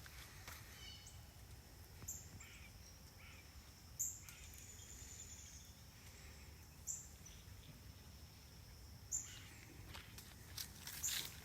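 Faint outdoor ambience with a low steady hum and a short, high tick every two to three seconds.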